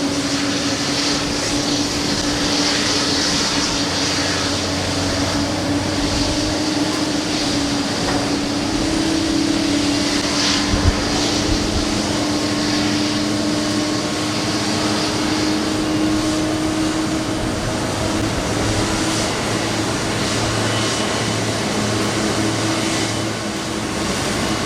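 Boeing 777-300's Pratt & Whitney PW4090 turbofan engines running steadily at low power, a constant hum with a slowly wavering tone. A few short knocks come about eleven seconds in.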